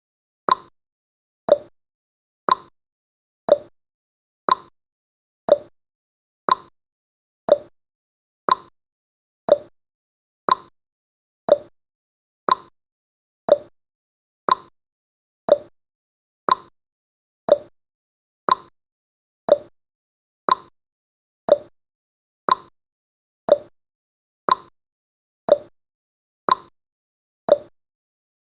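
Clock-style tick-tock sound effect of a countdown timer: sharp clicks about once a second, alternating between a higher tick and a lower tock.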